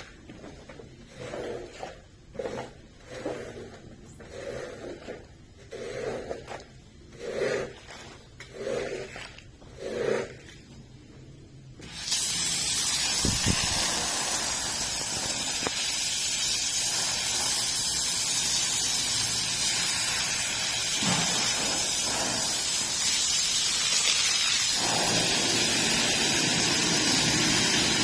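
A stiff brush scrubbing a wet carpet in about ten rhythmic strokes. About twelve seconds in, a pressure washer cuts in with a loud, steady hiss of spray.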